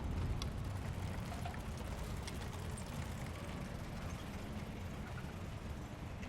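Wind buffeting the microphone in a steady, fluctuating low rumble, with a few faint ticks over it.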